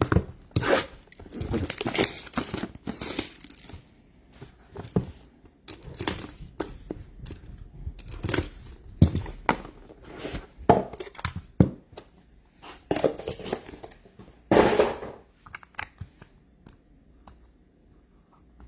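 Trading-card packaging being torn open and crumpled: bursts of tearing and crinkling wrapper, with scattered sharp clicks from cards and packaging being handled.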